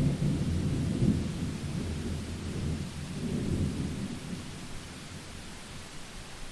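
Rolling thunder over steady heavy rain: a low rumble breaks in at the start, swells again about a second in and once more around three and a half seconds, then dies away into the rain's hiss.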